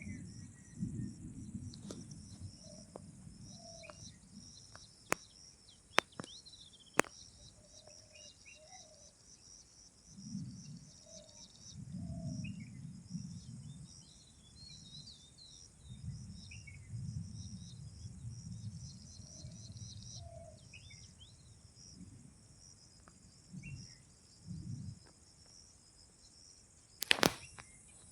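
Steady high drone of insects with short bird chirps scattered through it, and low rumbles that come and go. Three sharp clicks come about five to seven seconds in, and a loud knock comes near the end.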